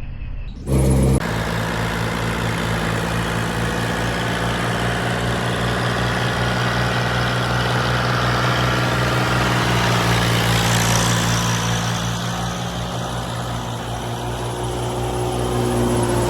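Old combine harvester's diesel engine and machinery running steadily with a deep, even hum. It cuts in abruptly about half a second in with a brief louder burst, eases off a little in level about two-thirds of the way through, then grows louder again near the end.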